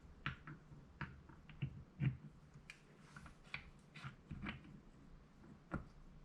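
Light clicks and taps of small carburetor parts being handled and fitted during reassembly, about a dozen irregular strikes with the loudest about two seconds in.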